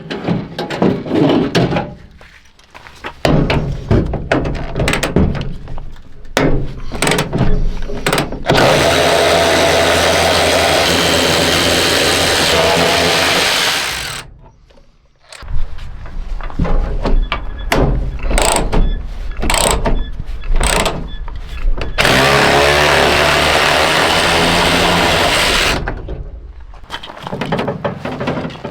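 A power tool running in two spells of several seconds each, with clanks and knocks of tools and metal parts before, between and after.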